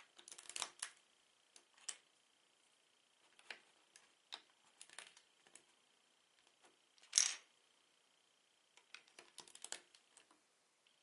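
Lego bricks being handled: scattered light plastic clicks and small rattling clusters, with one sharper click about seven seconds in.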